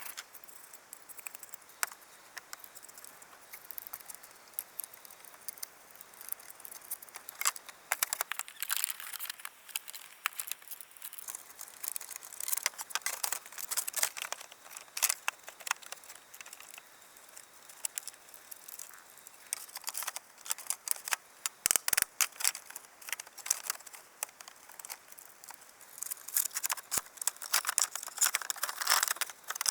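Irregular crinkling, rustling and sharp clicks of things being handled close by, busier from about eight seconds in and again near the end, over a faint steady high hiss.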